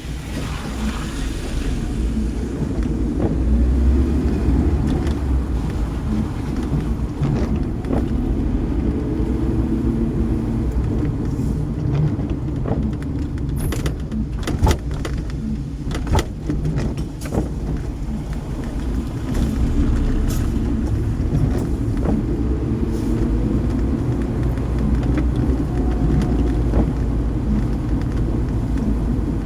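Car driving, a steady low road-and-engine rumble with scattered sharp clicks and ticks, most of them around the middle.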